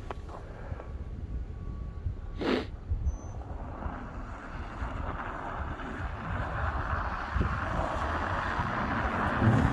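Wind rumbling on the microphone in a winter storm, with a hiss that grows louder from about four seconds in and one sharp knock about two and a half seconds in.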